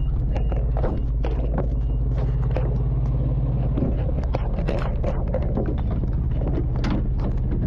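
Fire engine's motor running steadily, with frequent knocks and clatter of gear and boots around it. A short high beep sounds a few times in the first three seconds.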